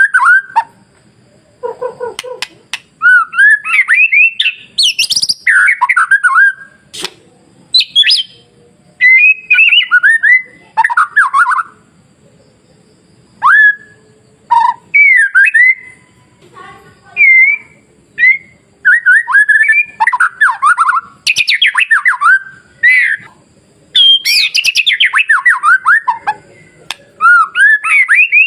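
White-rumped shama (murai batu) singing: loud bursts of varied whistled phrases that slide up and down in pitch, broken by pauses of a second or two.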